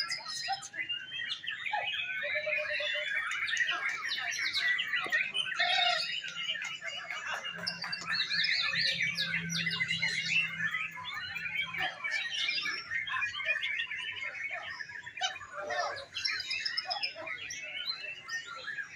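Many caged songbirds singing at once, a dense overlapping chorus of quick chirps, whistles and trills that does not let up.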